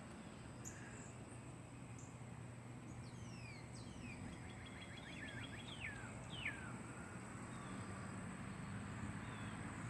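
Birds calling outdoors: several quick downward-slurred chirps and one short rapid trill in the middle stretch, over a faint steady low background hum.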